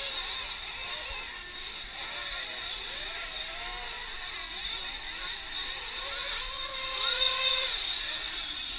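Several 1/8-scale nitro RC truck engines running at high revs around the track together, their high-pitched whines rising and falling as they accelerate and back off, loudest about seven seconds in.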